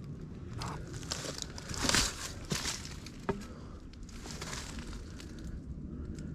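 Footsteps crunching and rustling through dry ground litter, with a louder rustle about two seconds in and a few sharp snaps.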